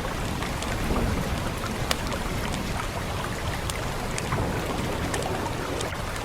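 Steady hiss of rain, with a wood fire crackling in occasional sharp, irregular pops.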